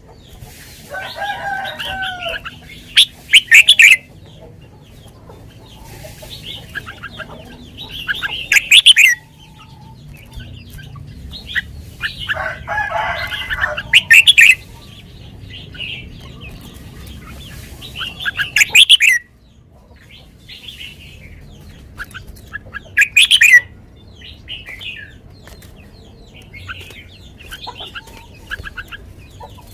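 Red-whiskered bulbul singing: five loud bursts of quick, high chirping phrases, about one every five seconds, with softer twittering in between.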